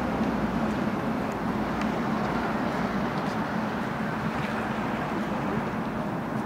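Electric commuter train pulling away from the station, its wheels and running gear making a steady rumble that slowly fades as it recedes.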